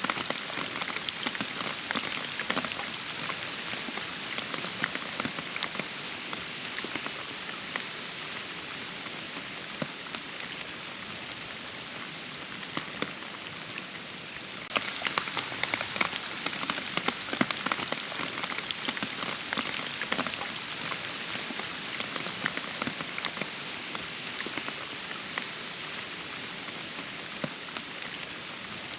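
Steady rain, with many separate drops ticking through a continuous hiss. A little past halfway, the rain abruptly gets somewhat louder and brighter.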